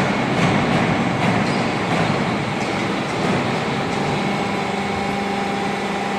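Steady mechanical hum and hiss of running workshop machinery, with a thin steady whine. A lower hum tone joins about four seconds in.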